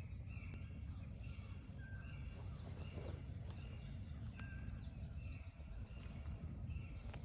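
A bird calling a steady series of short, even notes, roughly two a second, over a low rumble.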